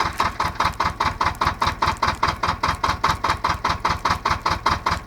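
BJR Falcon 40 articulated tractor's engine running steadily, with an even, rapid knocking beat.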